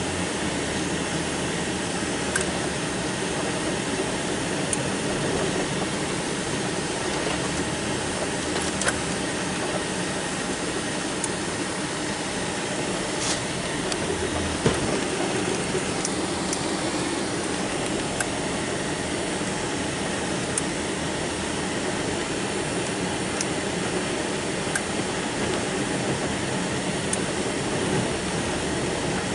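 Riding lawn tractor engine running steadily while plowing snow, with a few faint clicks.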